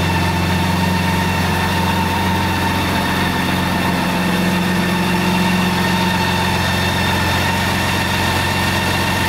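BMW K1600GT's inline-six engine idling steadily, with an even, unchanging note and a faint steady whine above it.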